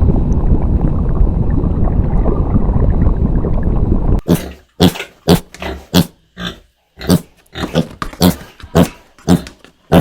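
A dense, steady low rumble for about four seconds, then an abrupt change to a series of short animal calls, about two a second.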